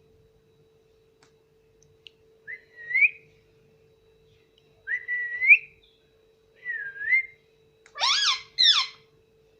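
Pet parrot whistling short rising notes a few times, then giving two quick harsher calls near the end, over a faint steady hum.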